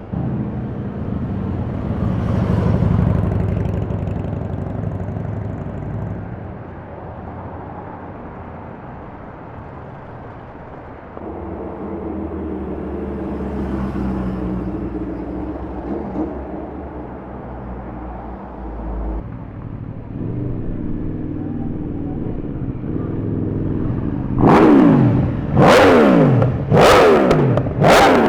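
Motorcycle and traffic engines running and passing, then a motorcycle revved hard in four quick throttle blips near the end, each falling away, the loudest sounds here.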